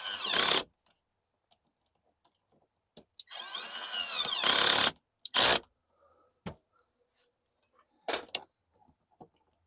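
A power drill/driver whirring in two short runs, tightening up a fastener, its pitch rising and falling as the trigger is worked, each run ending in a short louder burst. A few small clicks and knocks follow.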